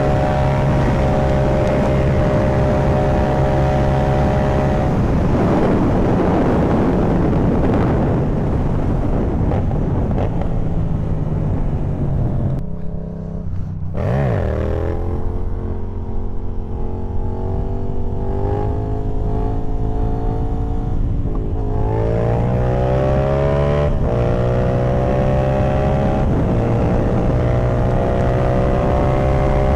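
Yamaha MT-07's 689 cc parallel-twin engine heard from onboard while riding. It holds a steady cruise, then the throttle is rolled off and the engine note falls away about halfway through. It then pulls up again with the pitch rising in steps through the gears, and settles into a steady cruise near the end.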